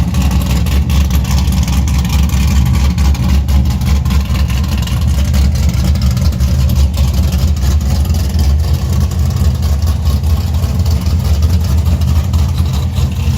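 Pontiac GTO V8 with a Brian Tooley Racing stage 4 camshaft idling through an axle-dump exhaust, a steady, deep, choppy idle.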